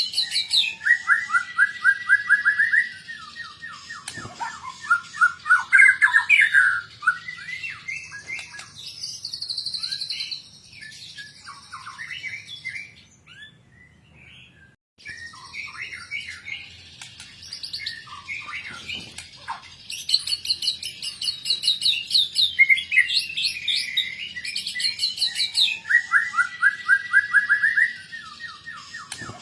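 White-rumped shama (murai batu) singing a long, varied song of loud whistles and fast trills, with mimicked phrases of other birds worked in ("full isian"). The song breaks off briefly about halfway through, then resumes.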